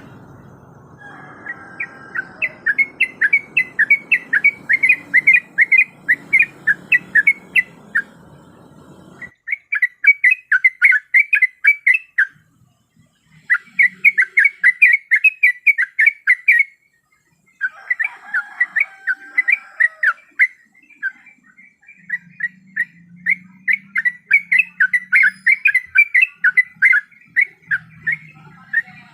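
Sooty-headed bulbul (trucuk) singing: a fast run of chirping, whistled notes in bouts of a few seconds, with brief breaks about nine, thirteen and seventeen seconds in. A faint background hiss lies under the song in the first third.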